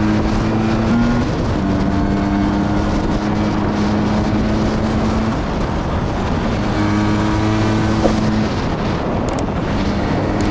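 Motorcycle engine running at steady revs on the move, its pitch stepping to new levels several times, with wind noise on the microphone.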